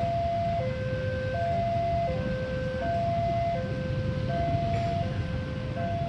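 Railway level crossing warning alarm sounding its electronic two-tone signal, a high tone and a low tone alternating about every three-quarters of a second, over a steady low rumble of engines.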